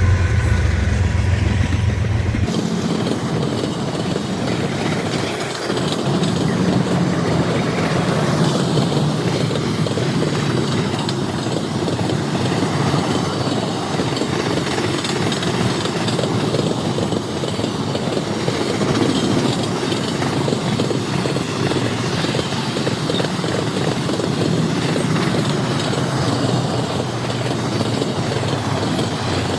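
Freight train passing: a deep locomotive engine rumble that cuts off about two seconds in, then the steady rolling noise of freight cars on the rails.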